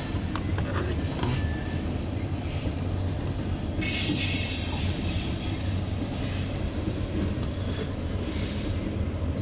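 Loaded coal train's hopper cars rolling past with a steady low rumble. High metallic screeches from the wheels come and go in short bursts, about three times.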